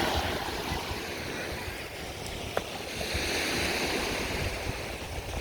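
Sea waves washing onto a beach, with wind buffeting the microphone; the wash swells to a louder hiss about three seconds in. A brief click about two and a half seconds in.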